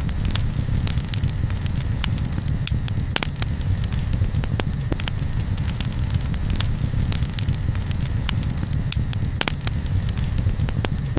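Campfire crackling: sharp, irregular pops and snaps over a steady low rumble, with short high chirps now and then.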